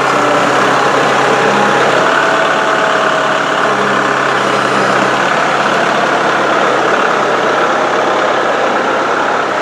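Tractor engine running steadily while the hydraulic root grapple is worked.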